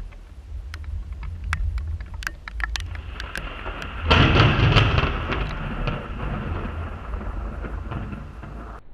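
Thunder: a low rumble with scattered sharp ticks, then a sudden loud thunderclap about four seconds in that rolls and fades away over the next few seconds.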